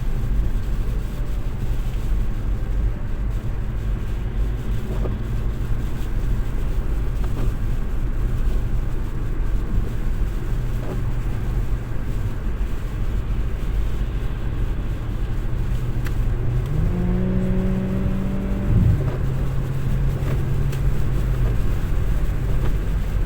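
Road noise inside a moving car: a steady low rumble of engine and tyres. About three quarters of the way through, a pitched hum rises and holds for about two seconds before dropping away.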